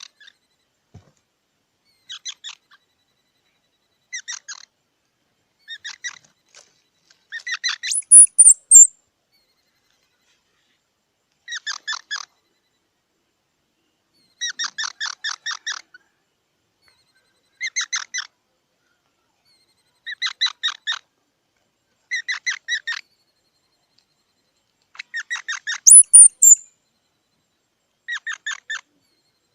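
Squirrel calling in bouts of rapid, repeated chirps, several to a bout, with a bout every two seconds or so. Twice, about eight seconds in and again near the end, it gives a louder high-pitched squeal.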